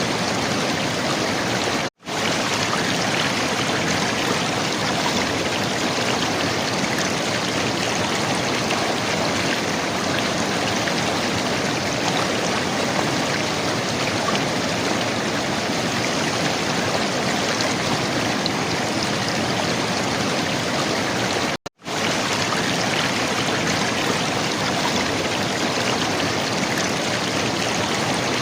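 River water flowing and gurgling in a steady rush, broken by two brief drops to silence, one about two seconds in and one about two-thirds of the way through.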